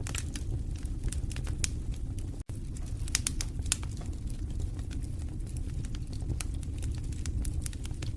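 Wood fire burning in a fireplace: irregular sharp crackles and pops over a steady low rumble of the flames. The sound cuts out for an instant about two and a half seconds in.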